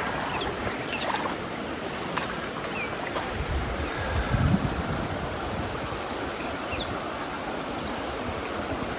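Mountain stream water rushing steadily over rocks, with a brief low rumble about four seconds in.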